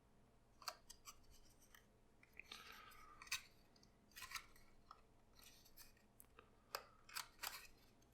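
Faint crinkling and rustling of papercraft card stock being handled, pressed and folded, with sharp little clicks scattered through it and a longer crackle about three seconds in.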